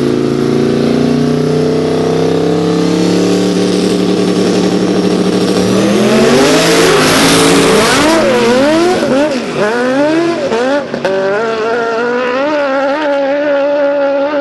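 Twin-turbocharged 5.3 V8 race engines held at a steady, slowly rising pitch, then a loud rush of noise about six seconds in as the launch comes, followed by the engine pitch swinging up and down again and again.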